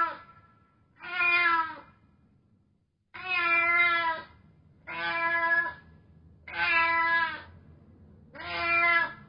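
A domestic cat meowing over and over: six drawn-out meows, each under about a second, with short gaps between them.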